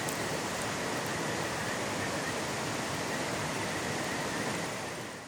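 Mountain stream flowing over rocks, a steady rushing that fades out near the end.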